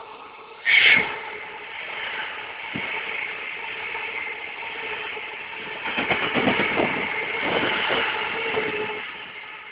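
Container wagons of a passing freight train rolling by: a steady running noise with clusters of wheel clatter around six and eight seconds in. A sudden loud burst comes about a second in.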